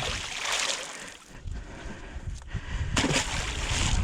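Water splashing and sloshing as a hoop net loaded with buffalo fish is hauled up against the boat, in two surges: one at the start and one about three seconds in.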